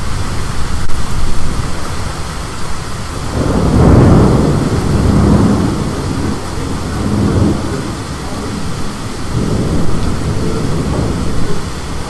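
Thunderstorm: thunder rumbling over steady rain and wind. The loudest roll swells about three and a half seconds in and dies away over several seconds, and a weaker rumble follows near the end.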